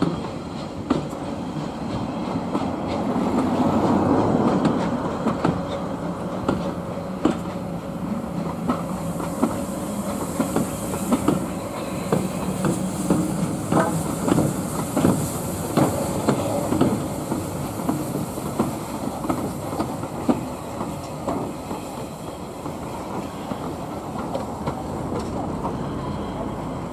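Steam-hauled train running past, its wheels clicking and clattering unevenly over rail joints, with a steady rumble and a high hiss through the middle stretch.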